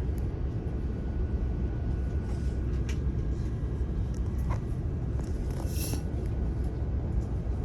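Steady low rumble of an airliner cabin on the ground before the takeoff roll: jet engines and cabin air running, with a few faint clicks and a brief rustle near six seconds in.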